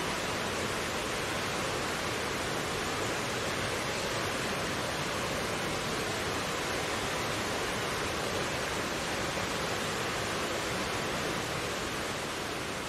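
Mountain stream flowing: a steady, even rush of water with no breaks.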